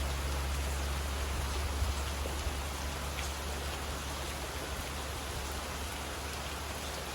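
Steady rain falling, with a low steady rumble underneath.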